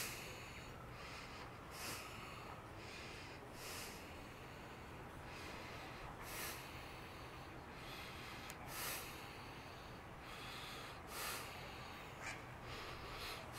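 A person breathing in short breaths every two to three seconds, over a faint steady low hum.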